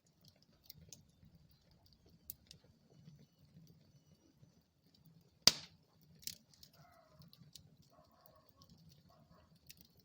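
Wood fire burning in a fireplace: a low, uneven rumble of flames with scattered light crackles, and one loud, sharp pop about halfway through, followed by a smaller pop.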